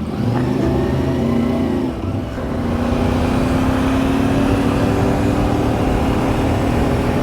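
Motorcycle engine pulling away and accelerating, its pitch climbing, with a brief drop about two seconds in, then running on with a slowly rising pitch.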